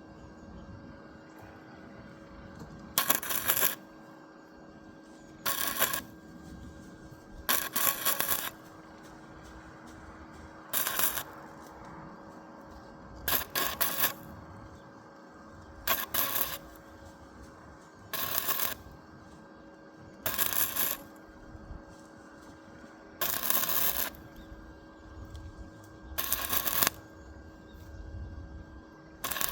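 Arc welder laying short tack welds on a metal pot-stand frame: about ten short bursts, one every two to three seconds.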